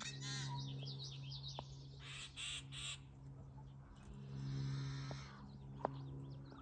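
Wild birds chirping and calling: a quick run of chirps near the start and a few harsher calls around the middle, over a steady low hum.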